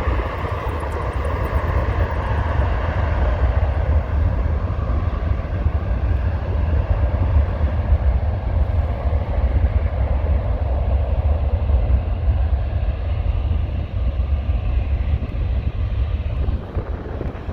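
Jet airliner taking off, its engines at takeoff thrust making a loud, steady deep rumble that begins to fade near the end.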